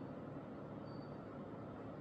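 A steady low hum, with one short, thin, high-pitched chirp about a second in.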